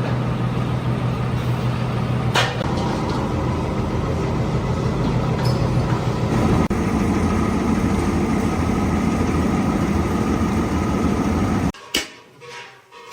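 Factory machine motor running steadily with a low hum, with a single sharp click about two seconds in. It cuts off abruptly near the end, followed by a few sharp clicks.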